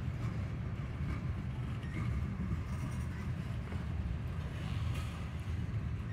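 Covered hopper cars of a slow-moving freight train rolling past, a steady low rumble of wheels on the rails.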